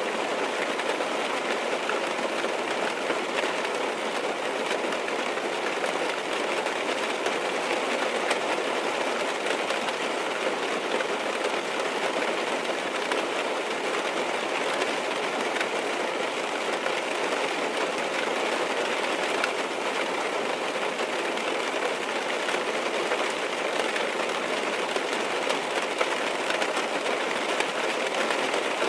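Steady rain falling on a car's roof and windows, heard from inside the cabin as a dense, even patter.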